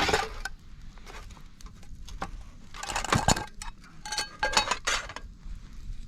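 Metal cooking gear clattering and clinking: a sharp strike at the start, a cluster around the middle, and several ringing clinks a little before the end.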